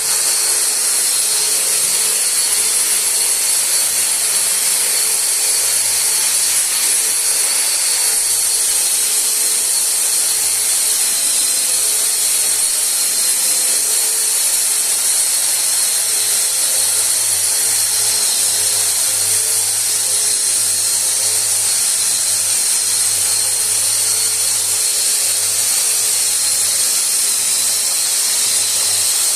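Electric drywall (plaster) sander running steadily while sanding a plastered surface: a high-pitched motor whine over the hiss of the sanding pad.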